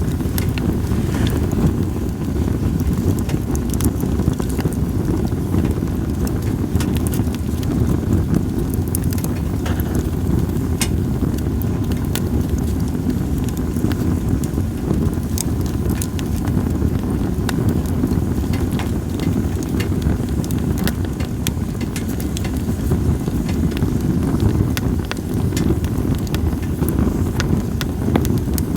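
Campfire of split sawtooth oak (kunugi) logs crackling, with many sharp irregular pops, over a steady low rumble of wind.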